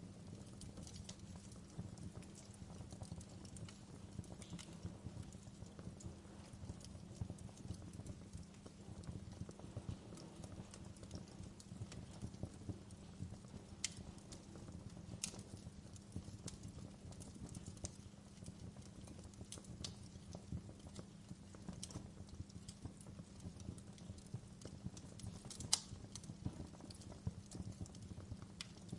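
Wood fire burning in a fireplace: a steady low rumble of flames under dense, irregular small crackles, with a handful of sharper pops, the loudest about 26 seconds in.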